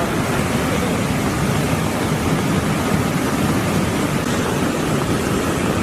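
Floodwater of a mountain river in spate rushing past, a steady, unbroken noise of fast-moving water.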